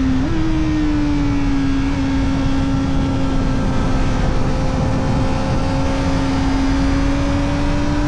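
Kawasaki Ninja ZX-4RR's inline-four engine running through an Arrow Indy Race Evo titanium exhaust with the dB killer fitted, under way at high, nearly steady revs. The pitch steps up just after the start, eases back down, then holds and rises slightly near the end, over a constant rushing noise.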